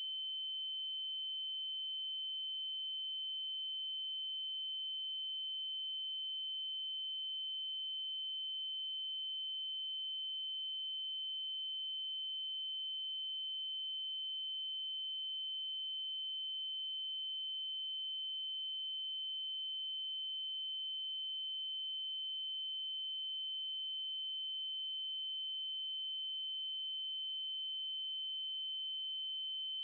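Synthesized 3072 Hz triangle-wave tone, a single steady high-pitched pure tone held without change.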